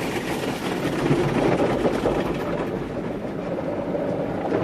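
Automatic tunnel car wash machinery running, heard from inside the car's cabin: a steady, dense rushing and rumbling of water spray and equipment against the vehicle.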